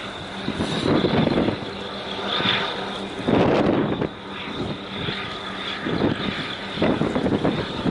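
Steady engine drone of harbour vessels, with a constant high whine above it, broken several times by loud gusts of wind buffeting the microphone.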